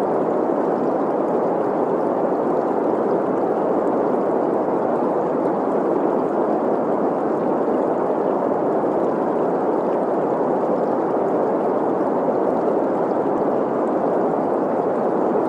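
Steady green noise, an even hiss centred in the middle range, mixed with the gurgle of a flowing stream.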